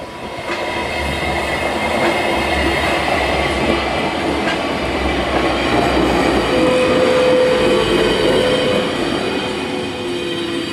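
Roslagsbanan X10p electric multiple unit passing over a level crossing: a wheel and track rumble builds from about a second in, peaks in the second half, then eases off. It carries steady high-pitched tones and a few sharp clacks of wheels over the crossing rails.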